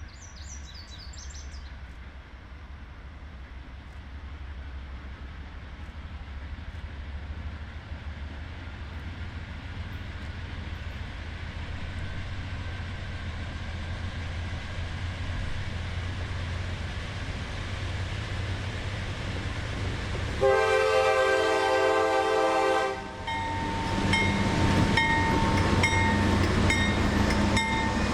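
CSX diesel freight locomotive approaching, its low engine rumble growing steadily louder. The horn sounds one long blast about two-thirds of the way in, then the train passes close with louder wheel and rail noise and high squealing tones.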